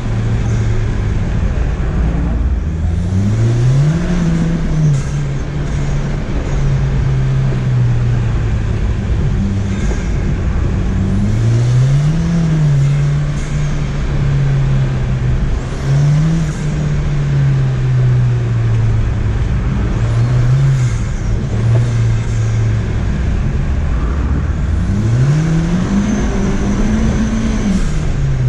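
Ford Fiesta ST's turbocharged four-cylinder engine under hard driving on an autocross run. The revs climb and drop back several times, with the biggest pulls about three seconds in, around twelve seconds in, and near the end, over a steady hiss.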